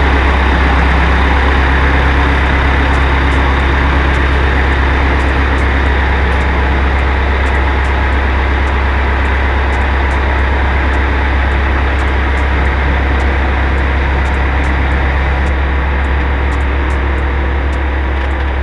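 Massey Ferguson 50 backhoe's engine running with a steady low drone.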